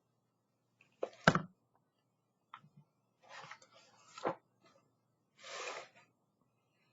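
A picture book being handled: a sharp knock about a second in, then pages rustling as they are turned, with a click near the middle and a softer rustle near the end.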